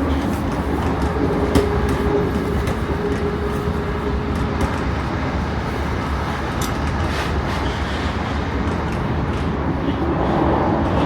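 Class 455 electric multiple unit running, heard from inside the carriage: a steady low rumble with scattered clicks of wheels over the rails, and a faint steady hum for a few seconds near the start.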